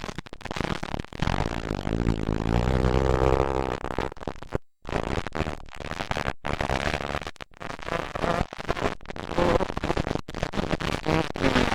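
Motocross dirt bike engines revving hard as bikes race by, loudest from about one to four seconds in. The sound cuts out completely for a moment several times.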